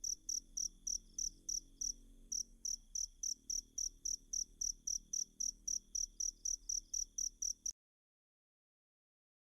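Field cricket chirping in a steady, even rhythm of about four high chirps a second, as a recorded training sound for songbirds; the chirping cuts off suddenly about two seconds before the end.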